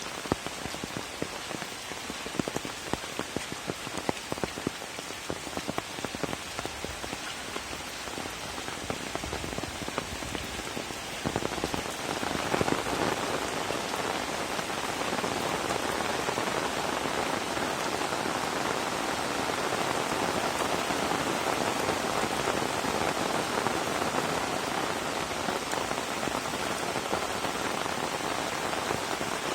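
Rain falling, at first with many separate drops striking distinctly; about eleven seconds in it grows louder and denser into a steady heavy downpour.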